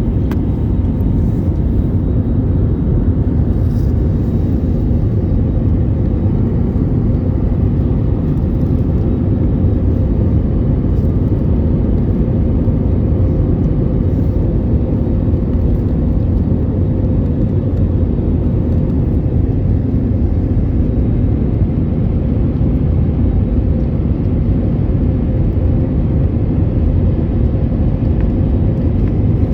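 Steady low rumble of engine and airflow noise inside the passenger cabin of a Boeing 787-8 airliner, with a faint steady hum running through it.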